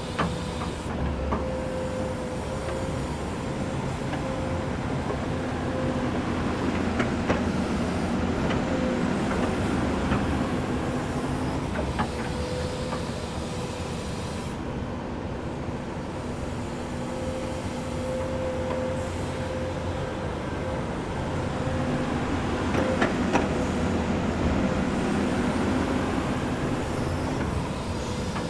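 Komatsu excavator's diesel engine running steadily, its note swelling and easing twice as the machine works, with a few sharp metallic clicks or knocks.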